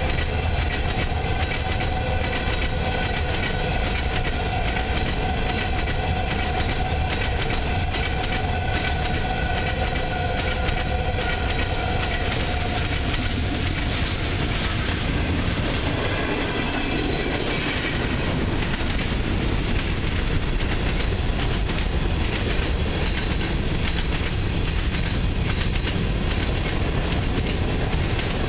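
Freight train cars rolling past at a level crossing: continuous heavy rumble and clickety-clack of wheels over the rails. A steady high tone sounds over the first half and fades out about halfway through.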